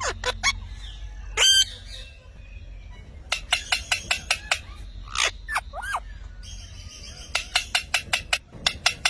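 Pet parrot chirping in quick runs of sharp clicks and tweets, with a loud squawk about a second and a half in and a couple of short arched whistles near the middle.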